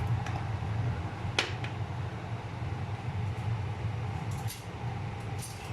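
Steady hum of a running induction hob with its cooling fan, with a sharp click about a second and a half in and a few light clicks near the end as whole garlic cloves are dropped into the dry pan.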